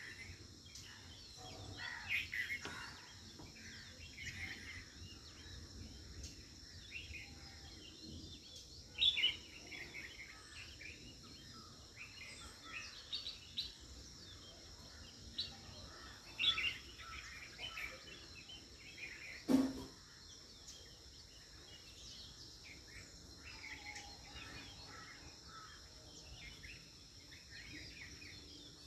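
Birds chirping in short, scattered calls over a steady high-pitched background. A single sharp knock comes about two-thirds of the way through.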